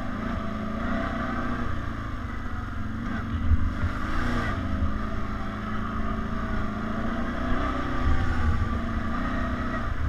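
ATV engine running as the quad is ridden off-road, its pitch wavering up and down with the throttle. Louder low rumbling surges come about three and a half seconds in and again near eight seconds.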